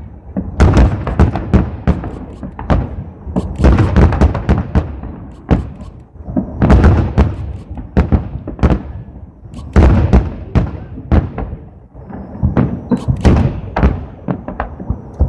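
Salute fireworks: a dense barrage of aerial shell bursts and launch thumps, many booms in quick succession, each echoing away.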